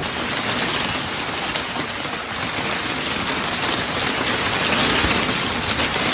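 Heavy rain pouring down: a dense, steady hiss of drops striking surfaces.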